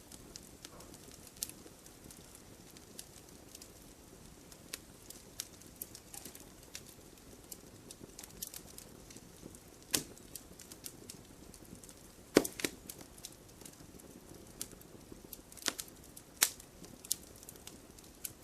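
Wood fire burning in a fireplace: a soft, low rustle of flame with scattered crackles and sharper pops of the logs. The loudest pop comes about two-thirds of the way through, and a few more follow near the end.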